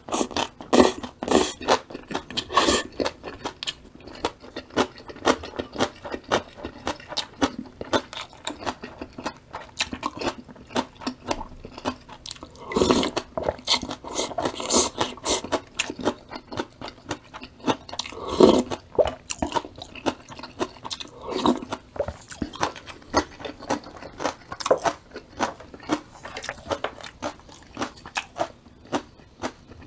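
Close-miked chewing: steady, rapid wet crunches of crisp vegetables, with louder bites about 13 and 18 seconds in.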